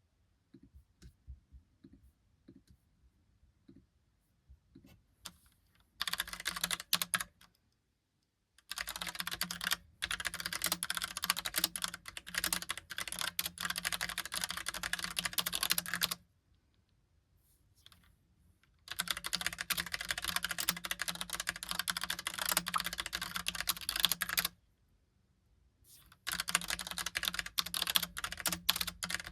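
Logicool Pop Keys mechanical keyboard with round typewriter-style keys being typed on: a few faint taps at first, then rapid typing in runs of several seconds broken by short pauses.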